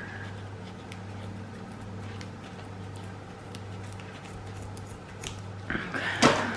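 Faint clicks of handling over a steady low hum, then a loud scissors snip near the end as a piece of craft material is cut off.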